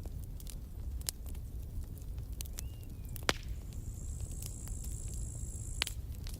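Campfire burning with a low steady rumble and scattered sharp crackles and pops, the loudest a little past the middle. A high thin whistle sounds for about two seconds in the second half, then stops with a pop.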